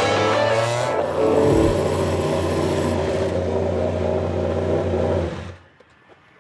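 Racing engine running at a steady pitch, then stopping abruptly about five and a half seconds in.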